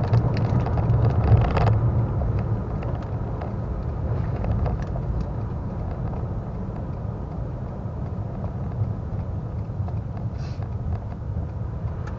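Steady rumble of road and engine noise inside a moving car, easing slightly over the first couple of seconds, with a few faint ticks.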